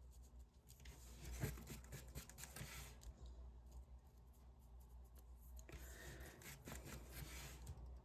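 Faint rubbing and scraping of a paint sponge pressed and swirled on paper, in two spells, with a light tap about a second and a half in.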